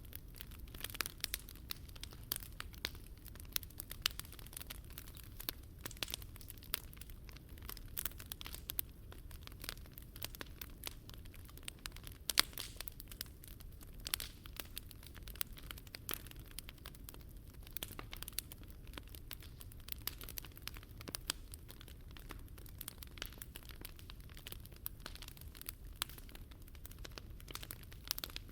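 Wood fire burning in a Picogrill 398 fire pit, crackling with many small sharp pops over a steady low rumble; one louder pop about twelve seconds in.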